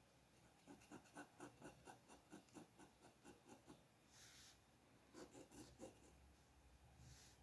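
Quick short drawing strokes on paper, about four a second, in two runs with a brief pause between them. Each pause holds a short soft hiss of a hand or tool sliding across the page.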